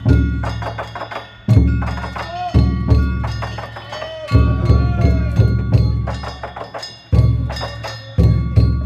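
Danjiri festival percussion: a large taiko drum struck every one to three seconds while small hand gongs are beaten rapidly and ring.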